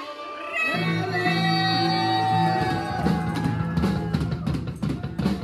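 Live band music with a long held sung note over guitar and bass, drums coming in more densely near the end.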